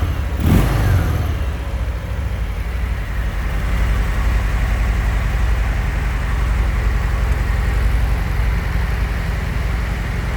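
Harley-Davidson Fat Bob's V-twin engine gives a quick throttle blip about half a second in, then settles to a steady idle with a low, pulsing beat.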